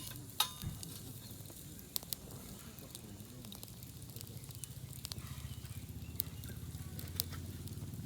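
Wood campfire crackling: scattered sharp pops over a low steady rumble that grows louder about halfway through, with a light metallic clink right at the start.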